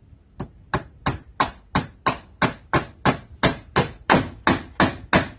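Hammer driving a galvanized trim nail into a treated 2x4 patch in a window frame: a steady run of sharp blows, about three a second, starting about half a second in, with a thin high metallic ring carrying between them.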